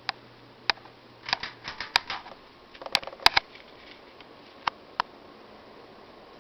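Scattered sharp clicks and short clinking rattles, a few in quick clusters, from the ceiling fan's pull-chains and switch being handled. A low steady hum stops about a second and a half in.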